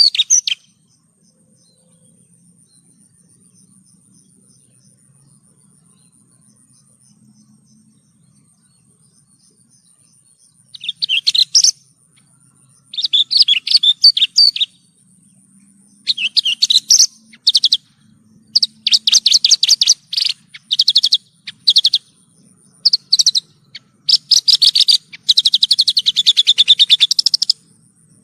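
A Javan bush lark (branjangan) singing in bursts of rapid, high chattering phrases. The bursts begin after about ten seconds of quiet, come more often as they go on, and end in one long unbroken phrase near the end.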